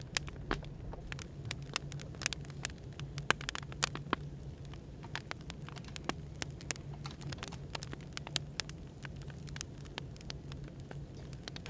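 Wood fire crackling, with irregular sharp pops and snaps several times a second, over a steady low background hum.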